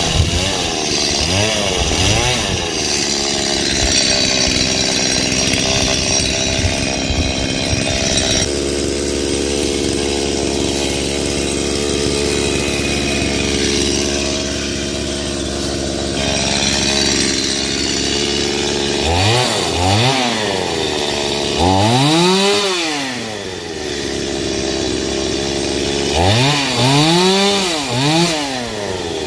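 Petrol two-stroke chainsaw cutting thick branches into firewood. The engine revs up and falls back again and again, with a long steadier run in the middle.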